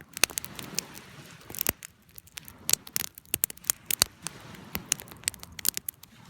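Wood campfire crackling, with irregular sharp pops and snaps of burning wood over a faint low hiss.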